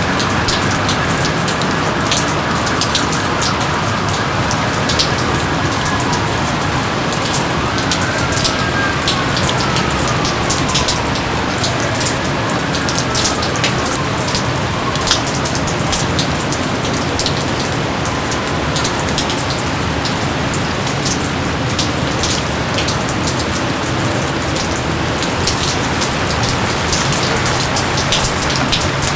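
Steady rain falling, with many sharp individual drops hitting close by.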